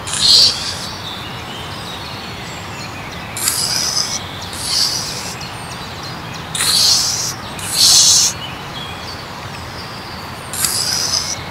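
Meerkats calling: short, high, raspy calls, each about half a second, coming in pairs, three pairs a few seconds apart, over a steady background hiss.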